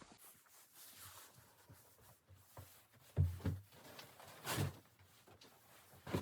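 A few separate soft thuds and knocks, the loudest about three seconds in, with more about half a second later, near four and a half seconds and just before the end.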